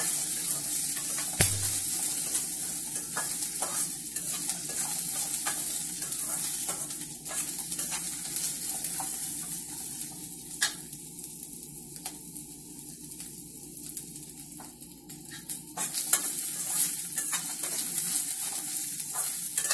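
Green chillies, ginger and garlic sizzling in a little oil in a stainless steel kadai, with a metal spatula scraping and tapping against the pan as they are stirred. A single knock about a second and a half in. The sizzle dies down in the middle and picks up again near the end.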